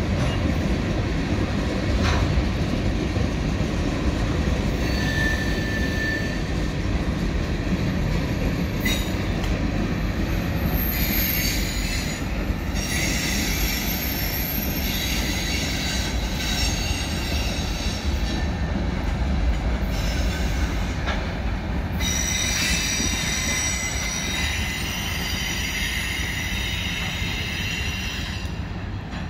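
Freight train of tank cars and covered hoppers rolling past with a steady low rumble, its wheels squealing in high, wavering tones on and off, longest in the last several seconds.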